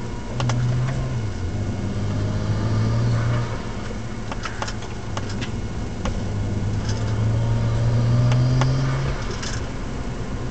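BMW 135i's N54 twin-turbo inline-six heard from inside the car while driving, with road noise; the engine note swells twice as the car pulls harder, from about half a second in and again around seven seconds, then eases off. A few short sharp clicks sound over it.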